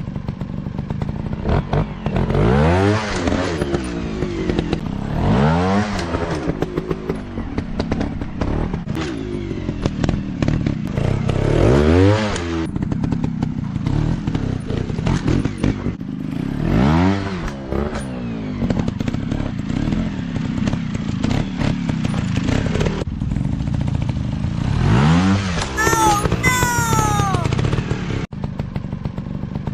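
Dirt bike engines running and being revved over and over, the pitch climbing and dropping about six times as the bikes accelerate and back off, with some clatter and thuds.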